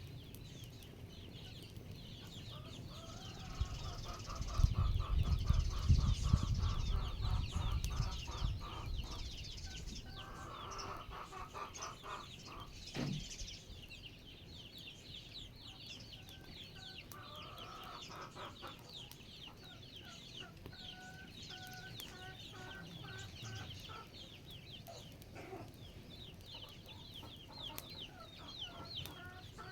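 Chickens clucking in short repeated calls, over a steady rapid high-pitched chirping. A low rumble about four to nine seconds in is the loudest part.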